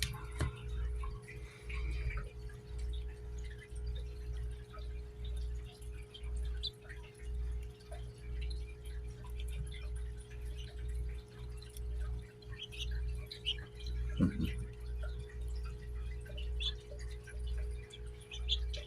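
A steady low hum with a constant tone, its low end swelling and fading unevenly. Faint, short, high bird chirps are scattered through it.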